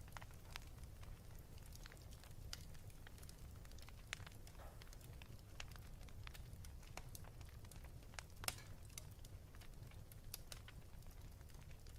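Wood fire crackling: irregular small snaps and pops over a low steady rumble, with one sharper pop about two-thirds of the way through.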